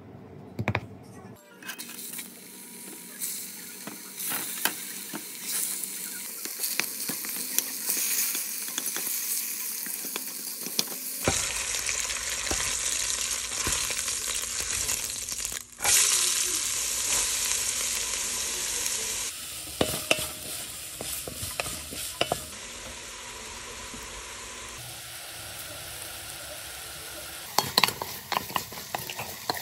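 Flour-dredged short ribs frying in hot olive oil in an enamelled Dutch oven: a steady sizzle, with tongs and a spoon stirring and scraping in the pan, later chopped onion, carrot and celery frying more quietly. The sizzle starts about a second and a half in and jumps in character at several cuts, and a few sharp clicks of the utensil on the pot come near the end.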